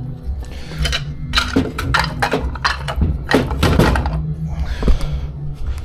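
Hard knocks and clatters, about a dozen in quick succession over a few seconds and one more near the end, as loose castor wheels and metal parts are handled.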